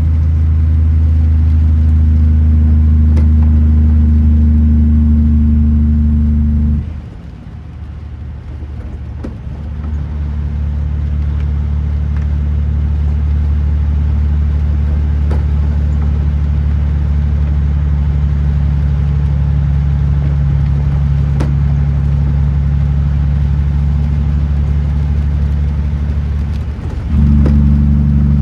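Kenworth T909 truck's diesel engine droning steadily. About seven seconds in it drops away sharply, builds back over the next few seconds and runs on a little softer, then jumps back up to full loudness near the end.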